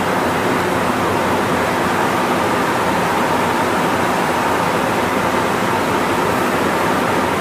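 Cabin noise of a Kanazawa Seaside Line 2000 series rubber-tyred automated guideway train running steadily: an even rush of tyre and running noise with a faint steady tone.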